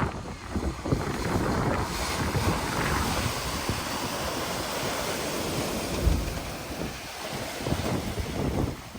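Water rushing and splashing around a vehicle wading through floodwater, with wind buffeting the microphone.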